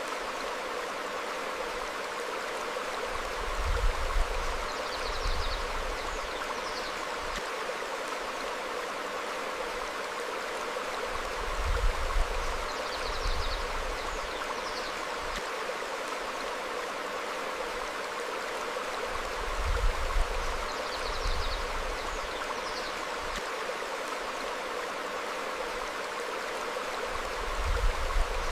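Stream flowing steadily over rocks, with a low rumbling swell about every eight seconds, four times in all, which are the loudest moments. Faint high bird chirps come in pairs between the swells.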